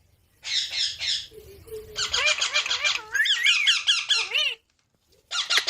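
Green parrots squawking: harsh, rapid screeching bursts alternating with rising-and-falling whistled notes, broken by a short pause just after the start and another about three-quarters of the way through.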